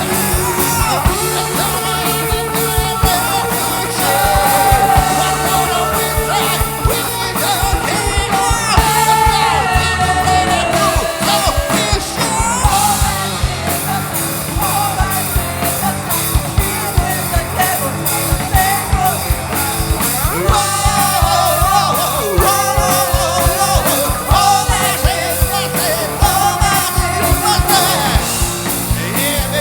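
Rock band playing live, a lead singer singing over the band with a steady, driving drum beat; the melody drops out for a stretch in the middle and comes back about two-thirds of the way in.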